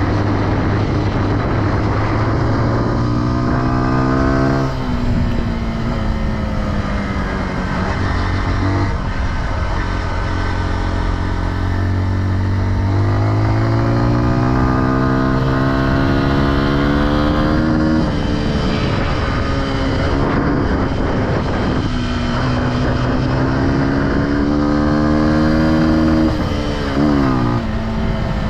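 Single-cylinder four-stroke off-road engine running under way, its pitch repeatedly climbing under throttle and dropping sharply when the revs fall off.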